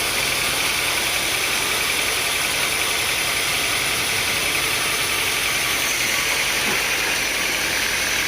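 Sawmill machinery running steadily: an even mechanical drone with a steady high-pitched tone over it and no change in level.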